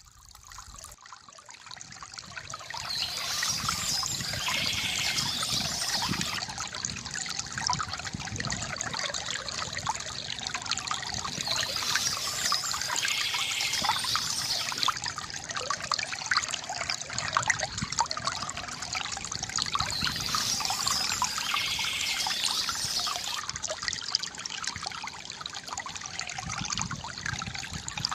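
Water trickling and splashing from a bamboo fountain spout. It fades in over the first few seconds, then runs steadily, swelling a little about every eight seconds.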